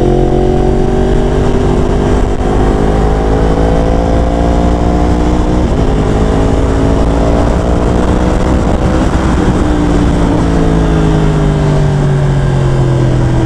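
2015 Yamaha R1's crossplane inline-four engine pulling under way, its pitch climbing slowly for about eight seconds, then falling steadily as the bike slows, with wind rush over the microphone.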